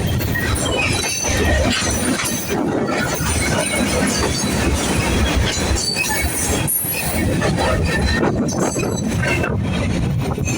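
Cars of a mixed freight train rolling past: steel wheels rumbling and clicking on the rail, with intermittent high-pitched wheel squeal.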